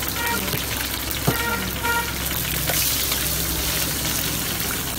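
Chapli kabab patties sizzling as they fry in a large pan of hot oil, a steady hiss throughout. There is one sharp knock about a second in, and a few short high beeps.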